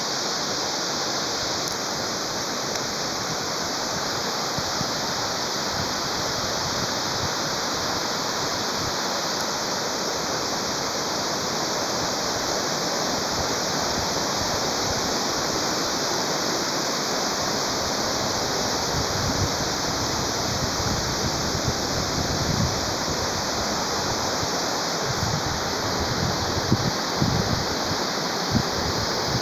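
Waterfall: a steady, loud rush of falling water, with a few low bumps in the second half.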